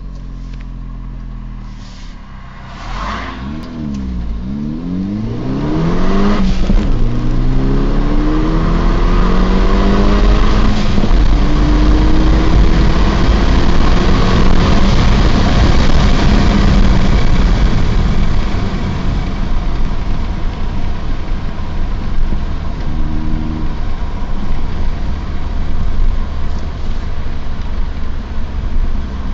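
Saab 9-3 2.0 turbo four-cylinder engine under hard acceleration, heard from inside the cabin. The revs rise and drop sharply at two gear shifts in the first seven seconds, then there is a long loud pull at high speed with road and wind noise. After about eighteen seconds it eases off and gets quieter as the car slows.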